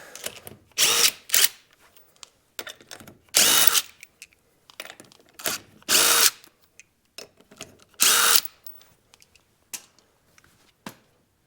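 Handheld power tool run in short bursts, about six of them a second or two apart, spinning the wheel nuts off the rear wheel hub.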